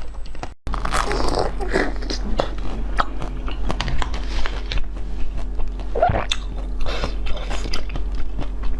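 Close-miked biting and chewing of crunchy frozen food, with many sharp cracks and crunches. It breaks off briefly about half a second in, then starts again.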